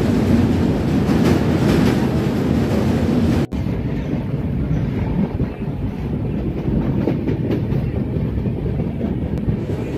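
Thirukkural Express passenger train running along the track, a steady rumble of wheels on the rails. About three and a half seconds in there is a sudden brief dropout, and after it the sound is duller, with less hiss.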